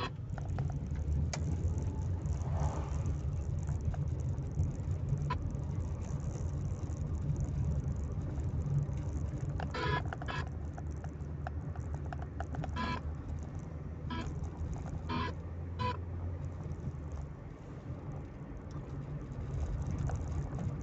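Car engine running steadily with a low hum, which eases off about seventeen seconds in. A few short, sharp sounds come between about ten and sixteen seconds in.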